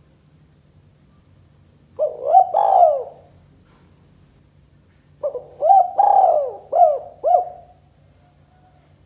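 Spotted dove (tekukur) cooing in two phrases. A short phrase comes about two seconds in, and a longer phrase of about five coos runs from about five seconds to nearly eight.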